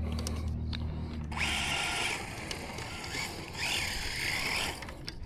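Electric Traxxas Slash RC truck being driven, its motor whining in two throttle bursts: one about a second and a half in, a longer one near four seconds with a rising pitch.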